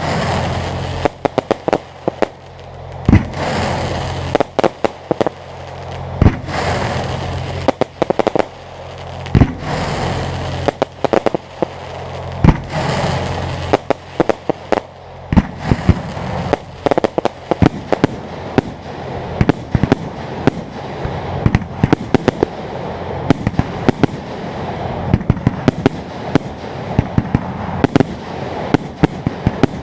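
Aerial fireworks shells bursting with sharp bangs, each followed by a swell of crackling. From about halfway the bangs come thick and fast, and a steady low hum runs underneath.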